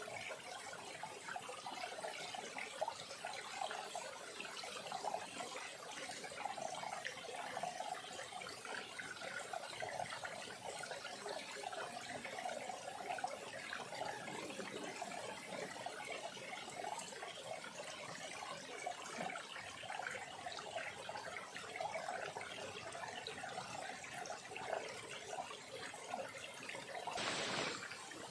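Small stream trickling and running steadily over stones, with a brief louder rush about a second before the end.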